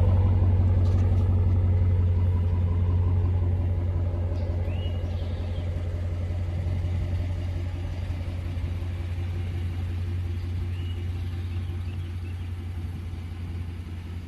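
Exhaust of a 2014 Ram 1500's 5.7 L Hemi V8 with a muffler delete (catalytic converters and resonators kept), settling back to a steady idle just after a rev and growing gradually quieter.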